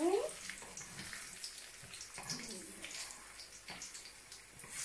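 Banana halves frying with sugar in a metal wok, sizzling with scattered crackles and a few sharper ticks.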